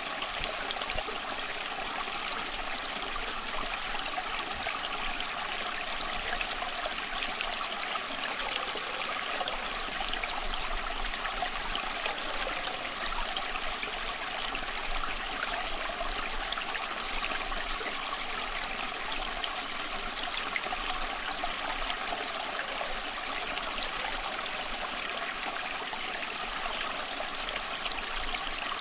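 A small creek flowing and trickling steadily over stones, a continuous babble of water without breaks.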